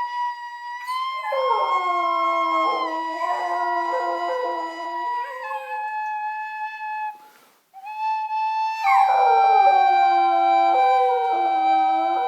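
A dog howling along with a steadily held musical note: each howl slides down in pitch and then holds low, once starting about a second in and again near nine seconds. All sound breaks off briefly a little after seven seconds.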